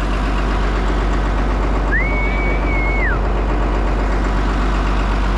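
Farm tractor engine idling steadily. About two seconds in, a single high whistle-like note slides up, holds for about a second and slides down.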